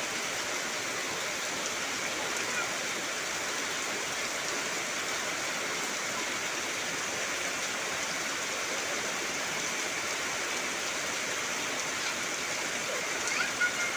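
Heavy rain falling steadily as an even hiss, with no let-up or change in strength.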